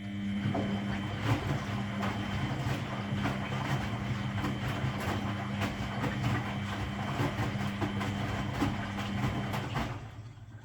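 Washing machine running: a steady motor or pump hum with rushing, rattling noise, starting suddenly and cutting off near the end.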